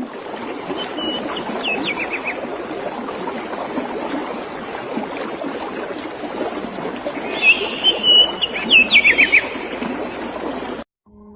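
Birds calling over a steady rushing background: two runs of quick, falling chirps, the second louder, with a thinner high trill between them.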